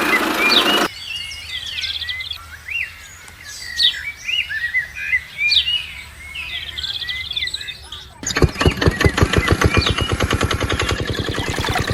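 Many small birds chirping, after a short burst of rushing noise in the first second. About eight seconds in, a small diesel engine cuts in abruptly, running with fast, even firing pulses.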